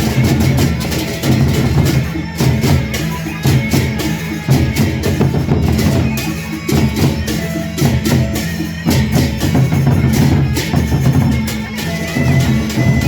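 Traditional drum ensemble playing a fast percussion piece: dense, quick drum strokes over sustained low pitched tones, with a few higher ringing notes.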